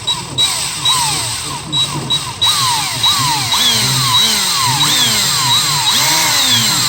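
Power drill boring into a seized EGR bolt. The motor's pitch dips and recovers about twice a second as the bit loads up, and it runs louder from about two and a half seconds in.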